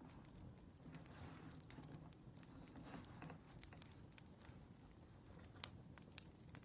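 Faint crackling of a wood fire: scattered sharp pops and crackles, one louder pop late on, with a soft rustle about a second in.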